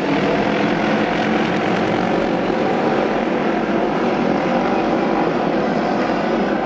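Several auto race motorcycles running together at steady high revs, their unsilenced engines giving a continuous loud drone with no break.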